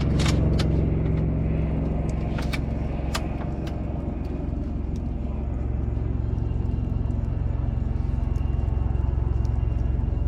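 Bonfire crackling, with a handful of sharp pops in the first few seconds, over a loud steady low rumble.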